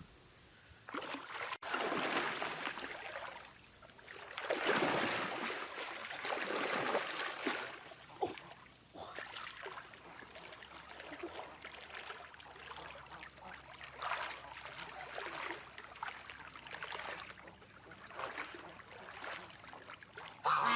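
Water sloshing and splashing in irregular swishes, the longest and loudest a few seconds in.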